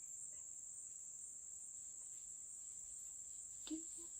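Steady high-pitched drone of rainforest insects. There is a single short click about three and a half seconds in.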